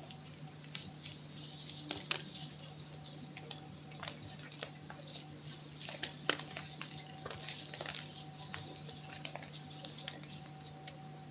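Crisp, irregular crackles and snaps of chalk being crunched, several a second, with the sharpest snaps about two and six seconds in. A steady low hum runs underneath.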